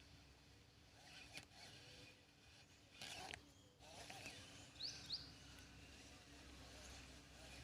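Faint open-air ambience with scattered bird calls, including two quick high whistled notes about five seconds in, and a brief noisy burst just before them.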